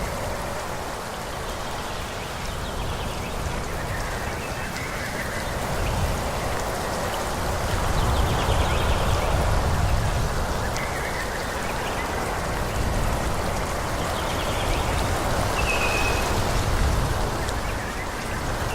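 Wind blowing through forest trees in a steady rush with a low rumble that swells about eight seconds in, while a bird gives a few short calls now and then.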